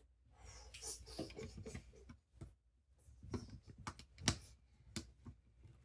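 Small plastic clicks and rustling of Lego pieces being handled during a build, with a sharper click about four seconds in.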